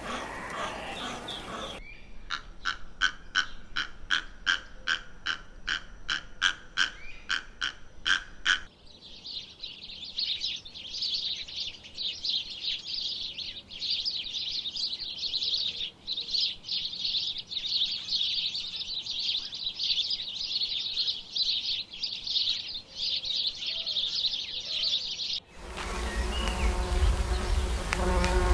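A run of short, evenly spaced pitched calls, about three a second, then a dense, high, steady insect buzzing that goes on for many seconds. Near the end it cuts abruptly to a louder, lower sound.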